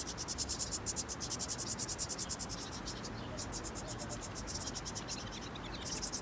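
Insects chirping in fast, even, high-pitched pulses, about ten a second, in trains with short breaks about three seconds and five seconds in.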